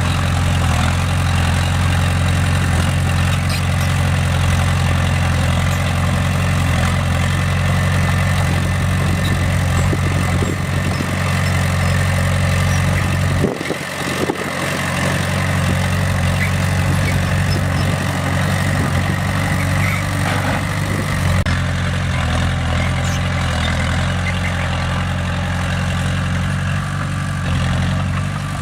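Bulldozer's heavy diesel engine running steadily with a deep, even drone, briefly dropping off for about a second near the middle before it picks up again.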